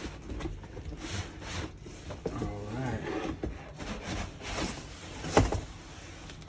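Cardboard packaging being handled and shifted: rubbing and scraping with scattered knocks, the sharpest knock about five seconds in.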